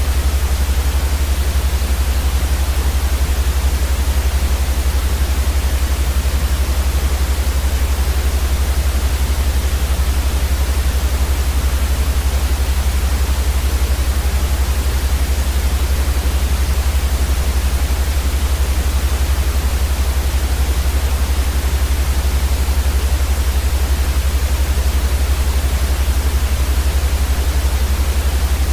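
Steady white noise: an even hiss across all pitches with a strong low hum beneath it, unchanging throughout.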